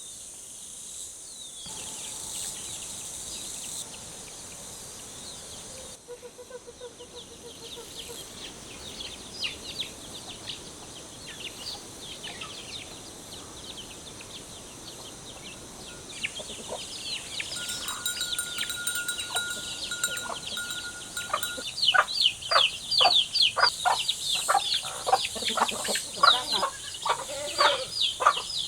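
Chickens calling: many short, high chirps and clucks, sparse at first, then denser and louder about two-thirds of the way in. A steady high tone sounds for a few seconds in the middle.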